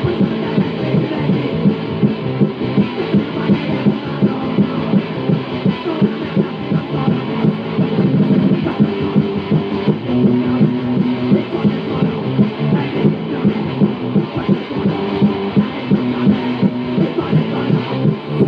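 Punk rock band playing a fast song: distorted electric guitar chords over drums hitting about three beats a second. The sound is dull and lo-fi, as on an early-1980s demo tape.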